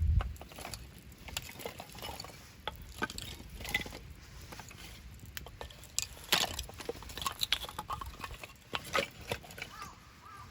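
Wood campfire crackling and popping at an irregular pace, with a low rumble right at the start.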